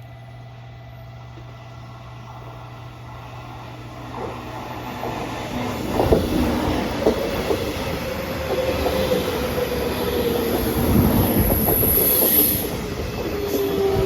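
A train running on rails: a low hum gives way, about four seconds in, to rising running noise with sharp clicks of wheels over rail joints, a slowly falling tone and a high-pitched wheel squeal near the end.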